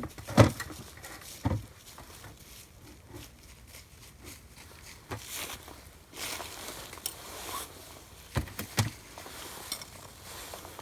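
Scattered knocks and thumps with rustling in between, from a wooden beehive being handled: two close knocks come together about two thirds of the way through.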